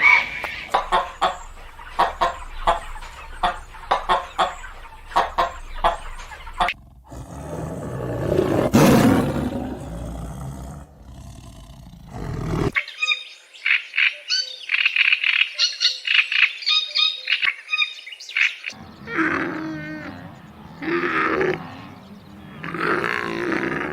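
A run of different animal calls in succession. First come rapid sharp chirps and clicks, then a swell of noisy sound, then high bird chirping, and near the end three drawn-out calls.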